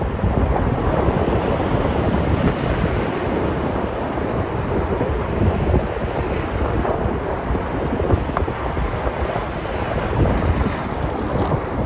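Sea surf breaking and washing ashore in a continuous rush, with wind buffeting the microphone in a low, unsteady rumble.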